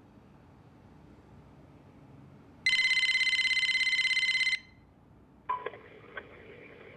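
Telephone ringing: one ring of about two seconds with a fast trilling tone, following an earlier ring. About two and a half seconds after it ends, an answering machine picks up, with clicks and a thin line sound.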